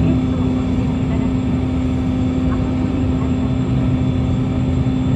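Toppy 2 jetfoil's gas turbines and water jets running at cruise: a steady drone with a strong constant hum over low rumble.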